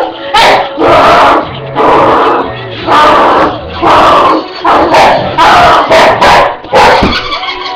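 A dog barking again and again, about ten loud barks a little under a second apart, close to the microphone.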